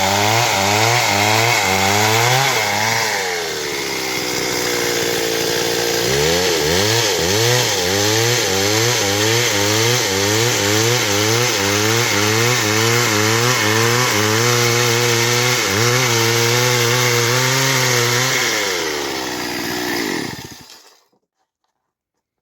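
Stihl MS 382 two-stroke chainsaw running at high revs while sawing wood, its pitch rising and falling about twice a second. It drops to a lower, steadier speed for a couple of seconds near the start, then runs up again, and the sound fades out about twenty seconds in.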